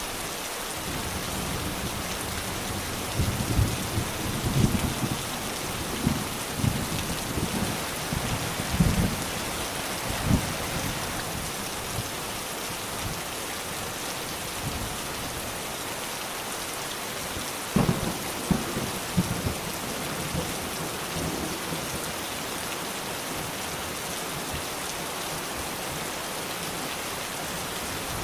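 Steady rain falling, with thunder breaking over it: a run of low rumbles and cracks from about three to ten seconds in, and another short cluster around eighteen seconds.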